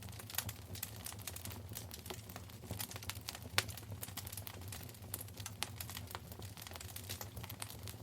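Wood fire burning in a fireplace, crackling with many irregular small pops over a low steady rumble of the flames, with one louder pop near the middle.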